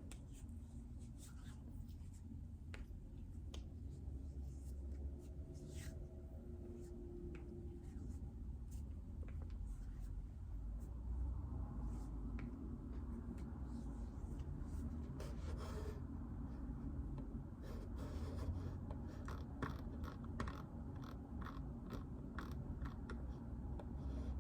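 Typing on a JJK84 mechanical keyboard with Outemu Silent Peach linear switches: muted keystrokes, scattered at first and coming in quick runs near the end, over a low steady hum.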